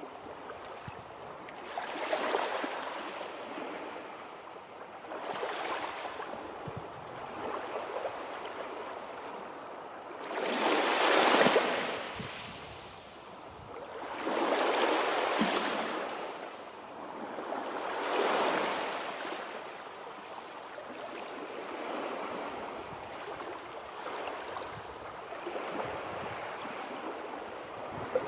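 Sea waves washing onto the shore, a rushing surf that swells and falls back every few seconds, the biggest wave about eleven seconds in.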